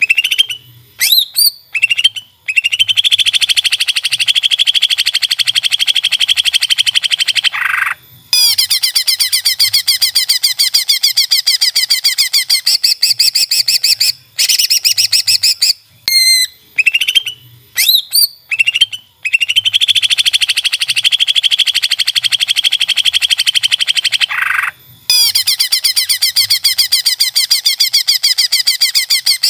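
Cucak ijo (green leafbird) song used as a masteran training track: a few sharp whistled notes followed by long bursts of rapid, high chattering trills, broken by short pauses. The same sequence repeats about every 16 seconds, as a looped recording.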